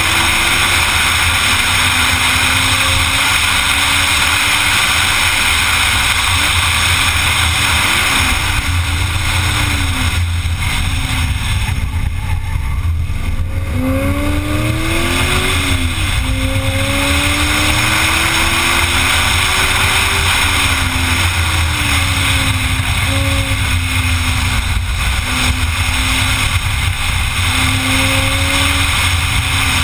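Sports car engine at speed on a race track, its note rising and falling with the throttle, easing off about twelve seconds in and pulling again a couple of seconds later, under a loud, steady rush of wind on the outside-mounted microphone.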